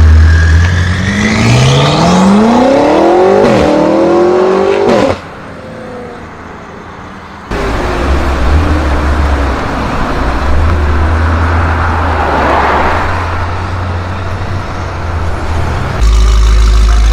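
Tuned BMW M5 F90's twin-turbo V8 through a SuperSprint exhaust accelerating hard, its note rising steadily with a brief dip about three and a half seconds in, like a gear change. It cuts off abruptly around five seconds in. From about seven and a half seconds a louder rushing noise with a low engine rumble takes over.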